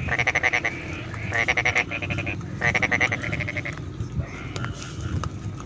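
Frogs calling in a rice paddy: three loud rattling calls in the first three seconds, each a quick train of pulses lasting about half a second. Fainter frog calls and a low steady rumble sit behind them, with a thin high whine that stops about four seconds in.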